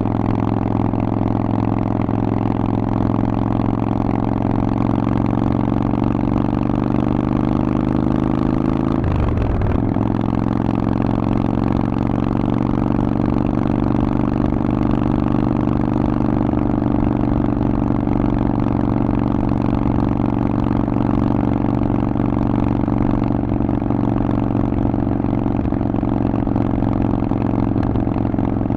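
Harley-Davidson Forty-Eight's 1200 cc air-cooled V-twin running through a Vance & Hines exhaust under way, its note climbing slowly. About nine seconds in there is a brief break for a gear change, and the note comes back lower and then holds fairly steady.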